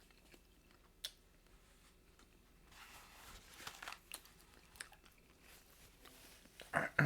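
A person chewing food with soft crunching, close to the microphone, with a click about a second in. A brief louder burst comes near the end.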